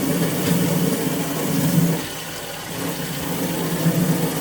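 Water from a garden hose running and splashing into a boat's live well as it is filled, over a steady low hum. About halfway through the sound drops off for under a second, then picks up again.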